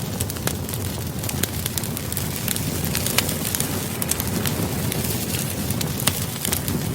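Campfire crackling: many sharp pops and snaps over a steady low rush of burning wood.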